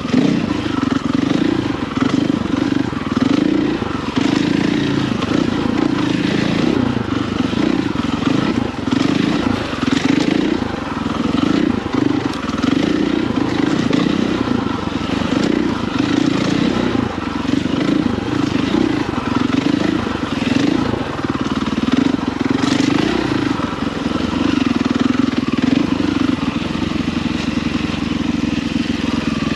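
Husqvarna FE450 single-cylinder four-stroke enduro engine running under load on a dirt trail, its note rising and falling as the throttle is opened and closed, with wind and chassis rattle over it.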